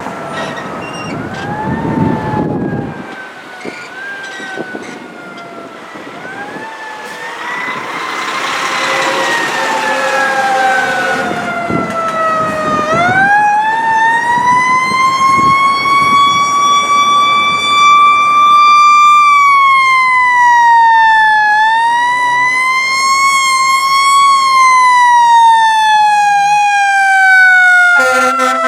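Fire apparatus sirens wailing as the trucks respond, faint at first, then a loud siren rising and falling in long slow sweeps. Near the end a steady low horn blast cuts in over it.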